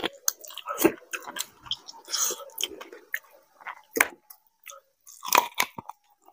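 A person chewing and biting meat off a mutton leg bone, eating curry and rice by hand: irregular sharp mouth clicks and smacks.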